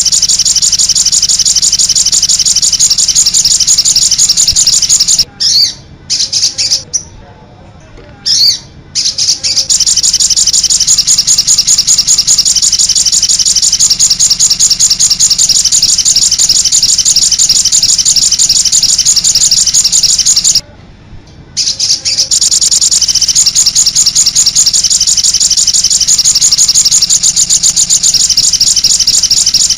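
Songbird song in a fast, continuous high-pitched trill of many notes a second. It drops out about five seconds in, where a few short notes are heard, resumes about ten seconds in, and breaks off again briefly a little past twenty seconds.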